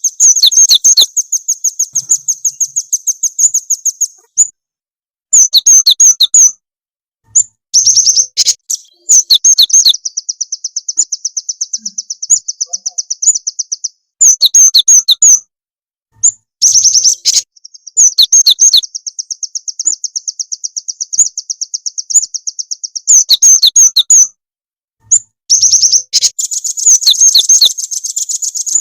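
Recorded lure calls of small songbirds, gelatik batu (cinereous tit) and rambatan (velvet-fronted nuthatch): loud, high, sharp chirps in quick bursts alternating with long, fast, even trills, the sound stopping dead between bursts.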